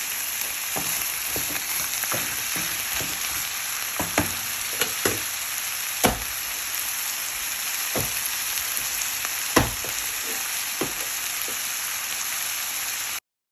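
Chicken pieces frying in hot oil, a steady sizzle, with scattered sharp clacks of a stirring utensil against the cookware. The sound cuts off abruptly near the end.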